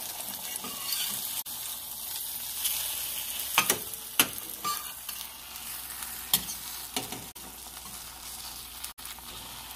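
Egg-soaked bread for French toast frying in a pan with a steady sizzle, with a few sharp knocks in the middle.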